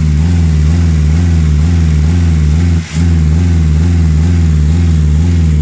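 Nissan twin-cam 16-valve four-cylinder engine running with a misfire, its pitch wobbling up and down in a quick, regular rhythm as the speed hunts. A brief drop in level about three seconds in. The mechanic puts the hunting down to a dirty air flow sensor.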